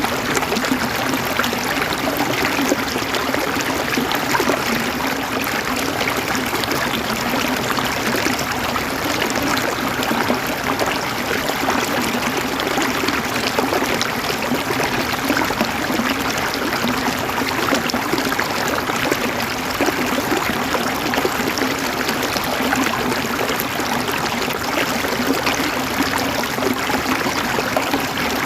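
River water flowing and gurgling over stones, a steady, unbroken rushing with a fine bubbling texture.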